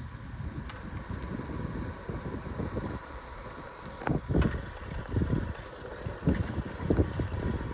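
Bicycle rolling along a trail, with a low rumble of tyres and light wind on the microphone. A few short knocks or rattles come about four to seven seconds in.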